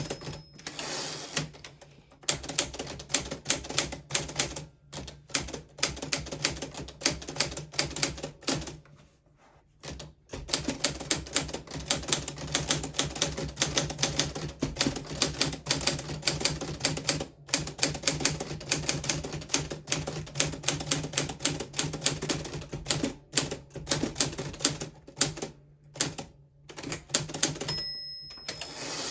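1940s Smith Corona Silent manual typewriter being typed on steadily, rapid key strikes clacking with short pauses, one of about a second near the middle. A brief ring sounds near the end, as when the margin bell signals the end of a line.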